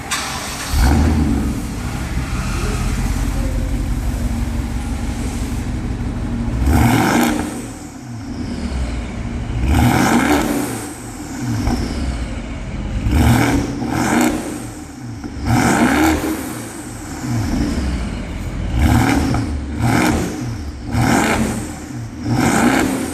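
BMW X6 xDrive50i's 4.4-litre twin-turbo V8 breathing through a Rogue Performance aftermarket exhaust: it fires up about a second in, idles steadily, then is revved in a series of short, sharp blips that rise and drop back to idle.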